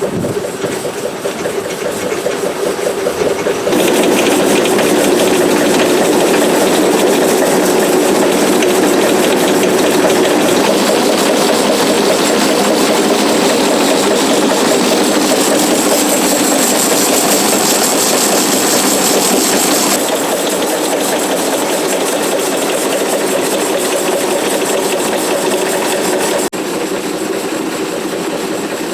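Stationary engine running and driving a line shaft and vintage bandsaw through a clutch and belts, a steady dense mechanical running sound. It jumps louder about four seconds in and steps down in two stages, about twenty seconds in and near the end.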